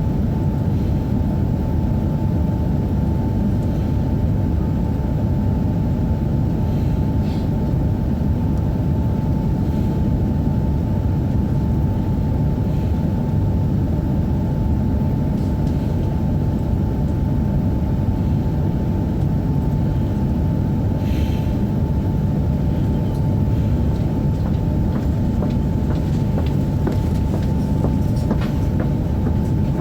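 Steady low rumble and hum inside a Tohoku Shinkansen Hayabusa car standing still, with a thin steady whine from the train's onboard equipment, broken only by a few faint clicks.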